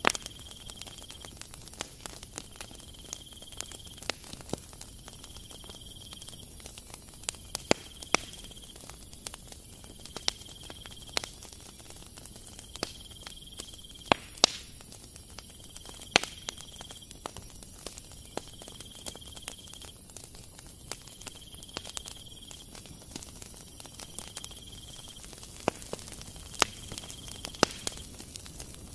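Hands kneading and pressing a soft, crumbly dough, with scattered sharp clicks and crackles as it squeezes and pulls apart. A faint high tone repeats about every two seconds in the background.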